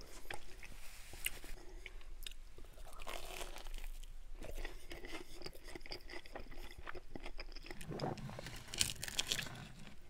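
Close-miked chewing of a spoonful of cream of mushroom soup with crushed buttery crackers and bacon: irregular wet, crunchy clicks and mouth smacks, louder and lower for a stretch about eight seconds in.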